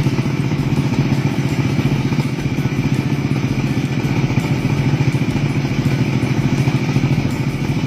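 Homebuilt light aircraft's Kawasaki Ninja 150 cc two-stroke motorcycle engine running steadily at constant speed, with a rapid even buzz and no change in pitch.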